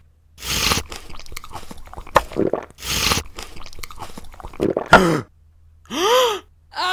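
Close-up eating sounds: several crunching, chewing bites in a row, then a short voiced grunt that rises and falls in pitch near the end.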